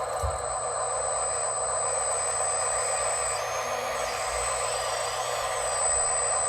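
Radio-controlled construction machines running: a steady mechanical whine and hum from their motors, with a fainter high tone joining about halfway through.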